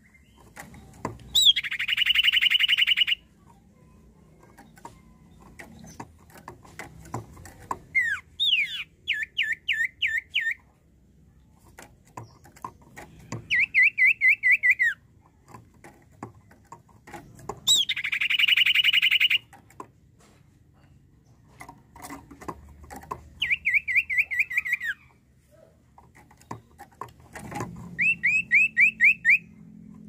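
Common iora (cipoh) singing: a long, trilled whistle heard twice, alternating with runs of about six quick falling notes, the phrases repeating every few seconds. Faint ticks fall between the phrases.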